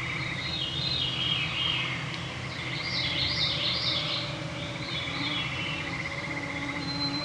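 Evening woodland chorus: songbirds singing, with a burst of looping whistled phrases about three to four seconds in, over a steady fast trill and the faint whine of mosquitoes.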